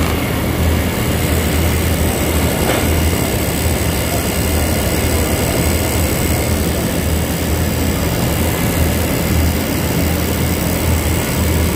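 Plain sewing machine running steadily with a loud, continuous low pulsing hum, its hook freshly oiled after running dry.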